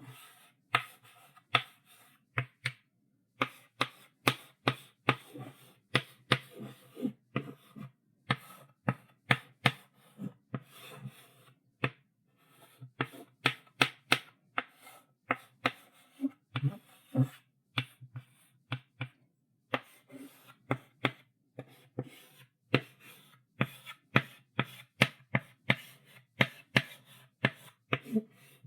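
Chalk writing on a blackboard: quick sharp taps of the chalk stick striking the board, several a second, with short scratchy strokes between them and brief pauses between runs.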